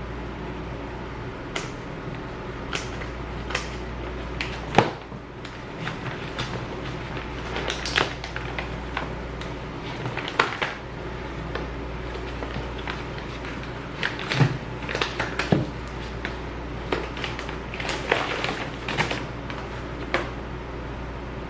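A parcel being handled and opened by hand: scattered taps, clicks and rustles of packaging, over a steady low hum.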